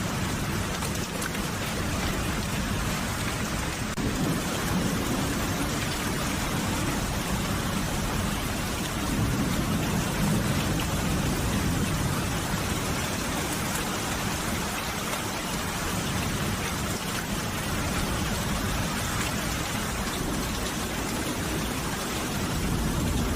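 Steady heavy rain pouring down, with a low rumble of thunder swelling a few seconds in and again near the middle.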